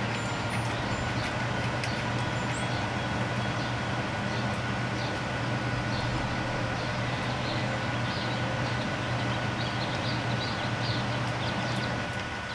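A steady low mechanical hum with faint whining tones above it, like a vehicle or machine running, easing off about twelve seconds in. Faint scattered ticks sit over it.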